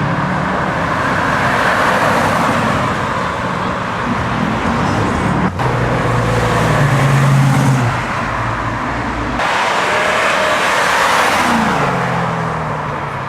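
Engines of American cars running, in a few short stretches that cut abruptly from one to the next, with the pitch dropping briefly near the end.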